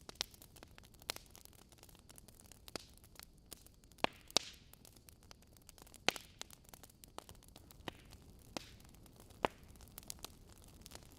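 Wood logs burning in a fireplace, crackling: sharp irregular pops about once a second over a faint hiss, the loudest about four seconds in.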